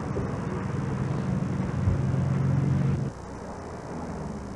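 Car engine running, a steady low hum with a broad noisy rush, which drops away abruptly about three seconds in.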